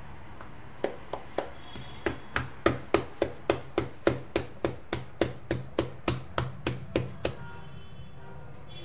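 Bare hands patting a ball of jowar (sorghum) flour dough flat into a bhakri on a floured stone counter. There are a few slaps about a second in, then an even run of about three or four pats a second that stops near the end.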